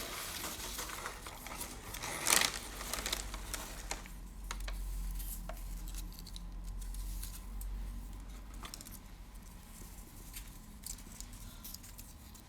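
Close-up ASMR crinkling and tapping: dense crinkling with one loud crackle about two seconds in, thinning out after about four seconds to sparse, soft ticks and taps.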